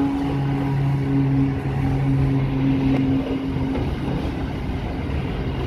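Pacific National 93 class diesel-electric locomotive 9324 passing close by with a steady engine drone that fades after about three seconds. Then comes the rumble and clatter of empty flat wagons rolling past on the rails.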